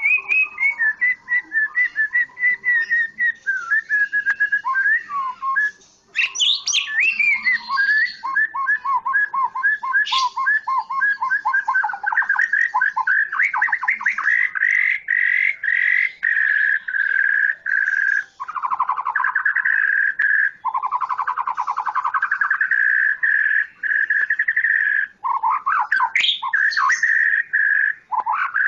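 White-rumped shama (murai, Medan type) singing without pause in a long, loud run of varied whistled phrases and fast trills. The middle of the run has long, held buzzy rattling notes.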